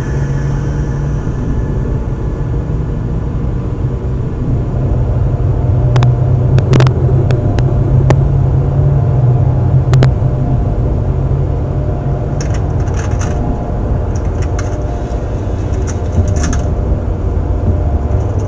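A loud, steady low rumble. A few sharp clicks come between about six and ten seconds in, and short hissy bursts follow later.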